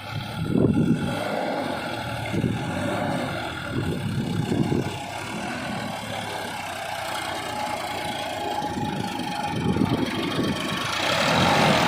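Tractor diesel engine running at low revs, growing louder about eleven seconds in.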